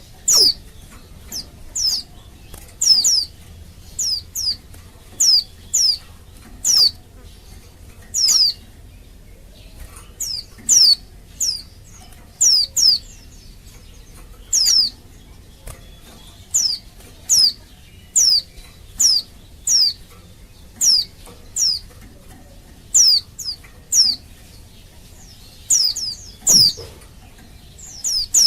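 Female white-eye (pleci) calling: short, high notes that fall sharply in pitch, repeated about once a second, some in quick pairs. This is the call a female gives to draw males into answering.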